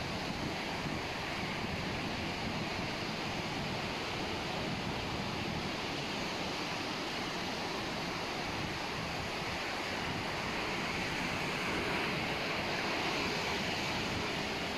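Sea waves breaking and washing on the beach in a steady rush, with wind buffeting the microphone.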